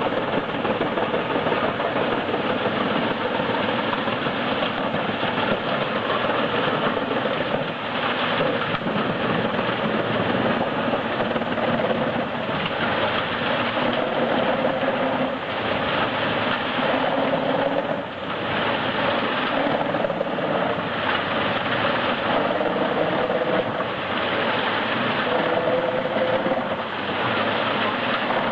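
Heizohack HM 8-500K drum wood chipper running under load, its engine and spinning drum grinding through logs in a steady, dense noise. The engine tone wavers up and down, with a few brief dips in loudness.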